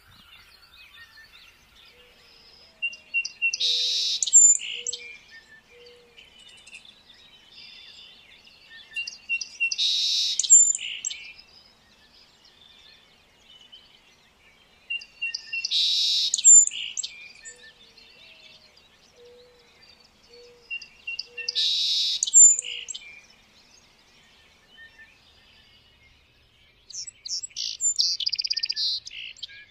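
Birdsong: bursts of high chirping and whistled notes about every six seconds, each burst nearly identical to the last as if looped, with a few short low notes underneath.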